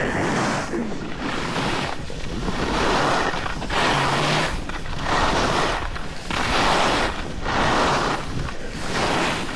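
Snowboard edge scraping across packed snow in repeated swells, about one per second, as the board carves turn after turn, with wind rushing over the microphone.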